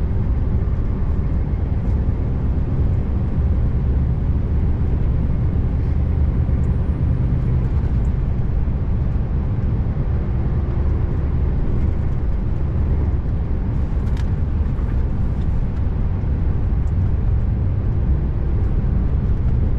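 Scania R590's V8 diesel truck engine running steadily under way, a constant deep drone with road noise from inside the cab.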